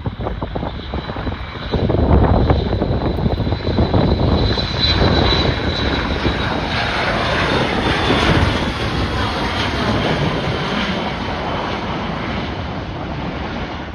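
Airliner engines passing close on a runway, a loud rush with a high whine that slowly drops in pitch. Wind buffets the microphone in the first two seconds before the engine noise swells.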